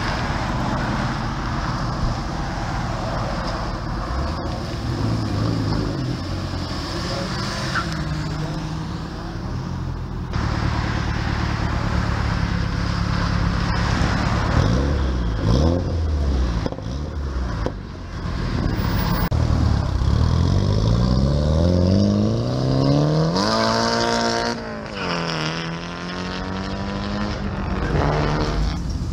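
Classic and muscle car engines pulling away at low speed, then one car accelerating hard: its revs climb steeply, drop at a gear change and climb again.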